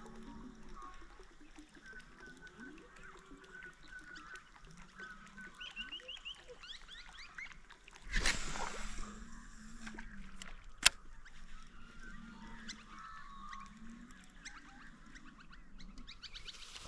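Birds chirping and low, honk-like animal calls over the water. About eight seconds in comes a loud splash that fades over a second or so, a Murray cod striking the topwater lure. A single sharp click follows a few seconds later.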